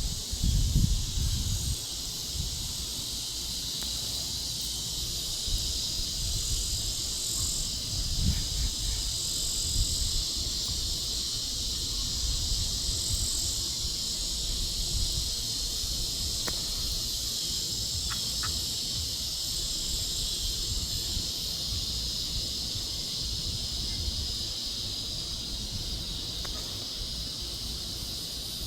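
Cicadas buzzing in a steady high chorus that swells faintly now and then, with wind rumbling on the microphone, gustiest in the first couple of seconds.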